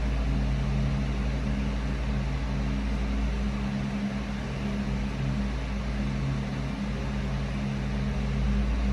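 Steady mechanical hum, two low tones over a deep rumble, like a motor or fan running without a break.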